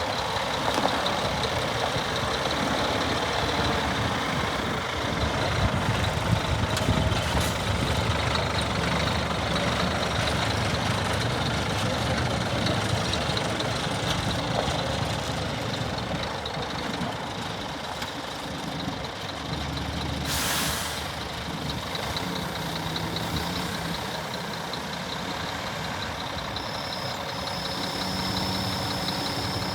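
Scania R480 6x4 hooklift truck's diesel engine running steadily, with a short hiss of compressed air from the air brakes about two-thirds of the way through.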